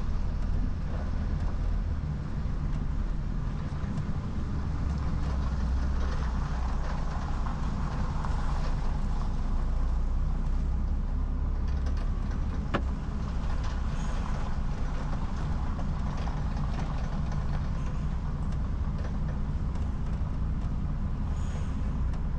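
An articulated lorry's diesel engine running steadily with a deep, even rumble as the truck is manoeuvred at low speed, with a single sharp click about two-thirds of the way through.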